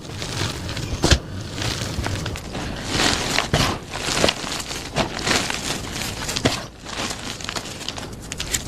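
Blocks of plain gym chalk being crushed: dense, irregular crunching and crumbling, with one sharp crack about a second in.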